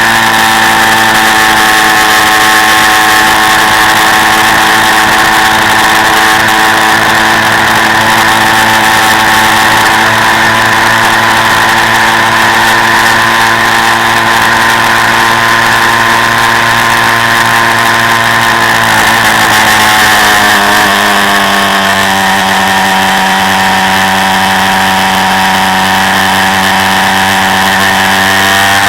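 Quad bike engine running steadily, heard from on board. About two-thirds of the way through, the engine note falls a little, then holds steady at the lower pitch.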